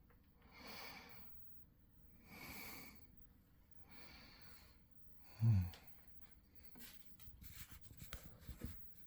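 A person breathing close to the microphone: slow, soft, regular breaths. About halfway there is a short low thump, and near the end a run of light clicks.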